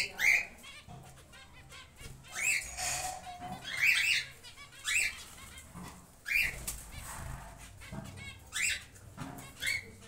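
Caged birds flapping and fluttering their wings, with several short rising chirps scattered through.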